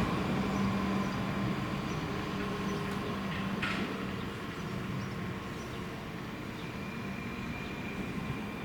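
Rhaetian Railway metre-gauge train running with a steady rumble and hum, slowly fading as it moves away. A brief sharp sound comes about three and a half seconds in.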